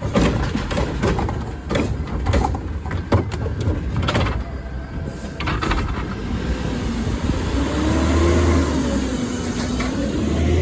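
Garbage truck at work: a run of sharp clanks and knocks over a steady low engine rumble, then from about seven seconds in the engine running harder with a whine that rises and falls.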